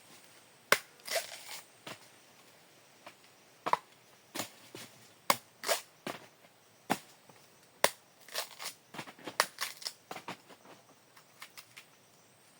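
Cacao pods being broken open: a run of sharp, irregular cracks and snaps, some single and some in quick clusters, with short quiet gaps between.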